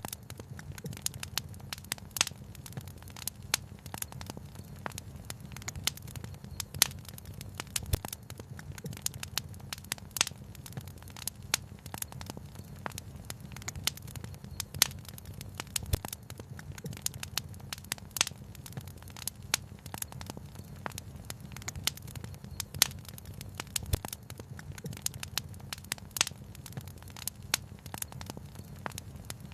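Wood fire crackling, with irregular sharp pops and snaps scattered through, over a steady low rumble.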